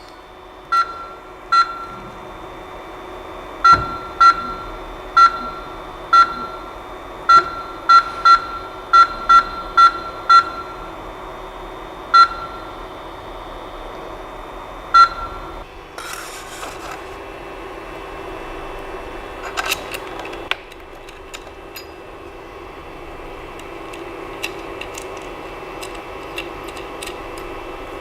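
Touchscreen of a Creality CP-01 3D printer/engraver beeping as its buttons are pressed: about fifteen short beeps at the same pitch, irregularly spaced, over the first fifteen seconds. After that the machine gives a steady mechanical hum with a few light ticks.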